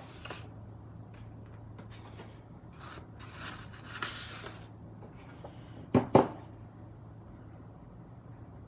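Paper and card being handled and rustled on a work surface, with two sharp knocks a moment apart about six seconds in, over a low steady hum.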